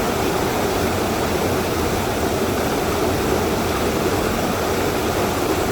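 Waterfall crashing into its pool: a loud, steady rush of falling water.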